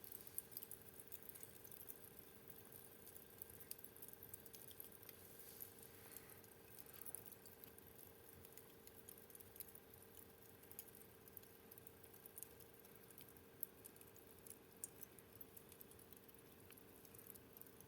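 Wood fire crackling faintly, with many small irregular snaps and pops over a low steady hum.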